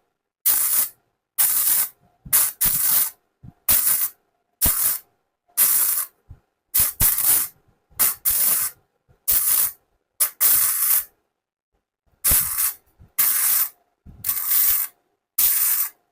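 Kobe 315 Pro MIG welder's arc crackling and hissing in about fifteen short bursts, roughly one a second, with silence between: a corner joint in thin box-section steel being welded in quick stitches with short pulls of the torch trigger.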